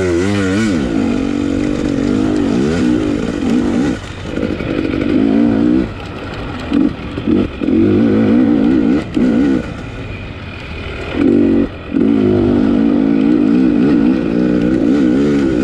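250-class off-road dirt bike engine racing, revving up and down under hard throttle. The throttle is chopped off briefly several times and opened again, with the pitch rising and falling as the rider accelerates.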